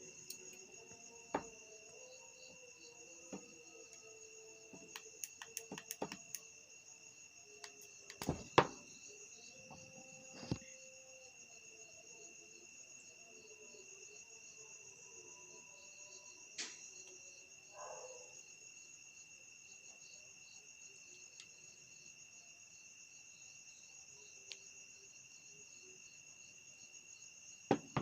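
Crickets chirring steadily in the background. Scattered sharp clicks and knocks of small parts being handled, the loudest about eight and a half seconds in.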